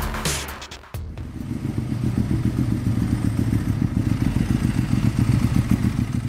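An engine running steadily with a fast, even pulsing, which cuts off abruptly at the end.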